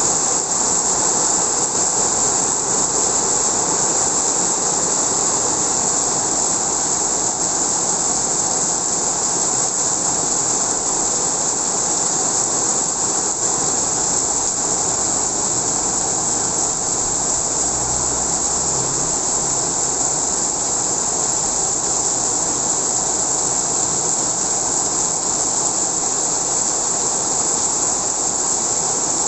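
Heavy rain pouring with strong wind: a loud, steady rushing noise that does not let up.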